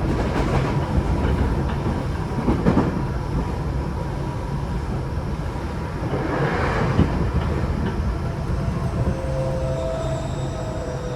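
Tokyo Metro 8000 series train with a Mitsubishi IGBT-VVVF inverter, heard from inside the car: a steady rumble of the wheels on the rails, with a couple of short bursts of clickety-clack from rail joints. Near the end, thin steady whining tones come in as the train slows for the station.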